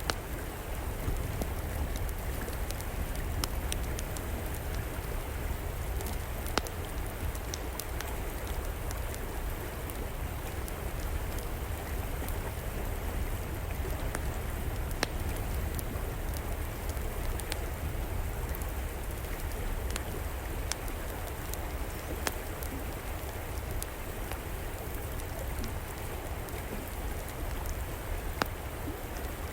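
Steady rush of flowing river water under the crackling of a fire in an outdoor fireplace, with sharp pops scattered every second or two.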